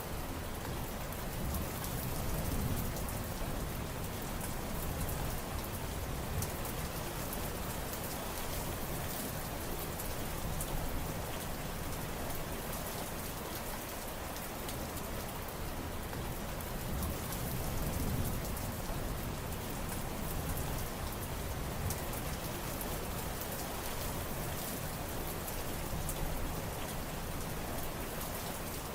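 Steady rain falling and pattering on surfaces, with a low rumble that swells briefly about two seconds in and again just past the middle.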